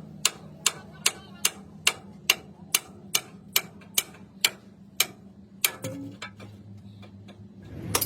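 Hammer tapping on steel in an even rhythm, about two and a half strikes a second, stopping about six seconds in, over a low steady hum.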